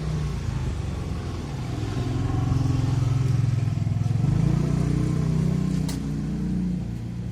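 A motor vehicle's engine running close by, swelling louder about two seconds in and easing off after about five seconds. A single sharp click near the end.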